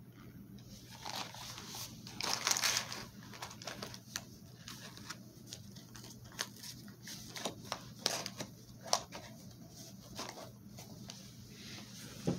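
A mouthful of cornstarch being chewed, crunching and crackling with scattered sharp clicks, densest about two seconds in.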